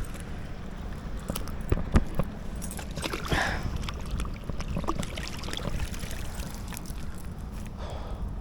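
Water sloshing and splashing around a small boat, with a few sharp knocks about two seconds in and a louder splash about three seconds in, over a steady low rumble.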